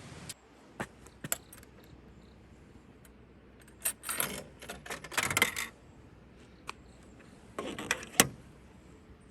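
Small hard objects clinking and rattling as they are handled: a few separate clicks, then two short spells of clattering, the last ending in one sharp knock.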